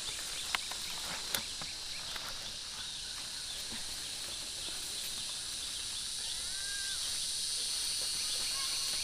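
Insects chirring in a steady, high-pitched chorus. Two sharp clicks come in the first second and a half, and a short call rises and then holds a little over six seconds in.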